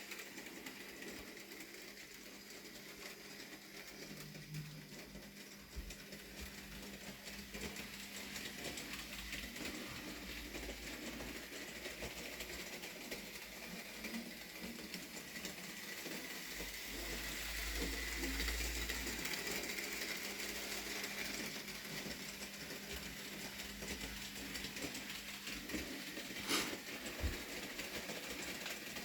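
Bachmann Rheneas model locomotive running on track, its small electric motor whirring with the light rattle of the wheels and trucks. The whir grows louder to about two-thirds through, then eases, and there is a sharp click a few seconds before the end.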